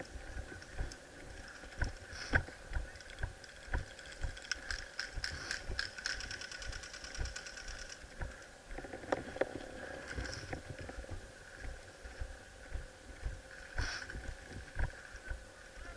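Airsoft electric gun firing a long full-auto burst: a rapid, even clatter of shots for about three seconds near the middle, with scattered low thumps throughout.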